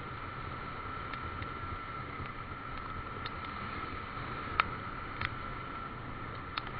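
Motorcycle on the move: a steady rush of road and engine noise with a steady whine, and a few sharp clicks, the loudest about halfway through.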